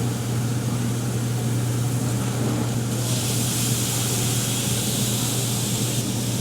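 Food sizzling on a hibachi teppanyaki griddle over a steady low hum, with a loud burst of hissing steam for about three seconds midway through.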